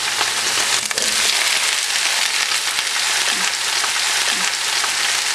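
Cut eggplant pieces tipped into hot oil with cumin seeds in a stainless steel pan, sizzling steadily as they start to fry, with a short knock about a second in.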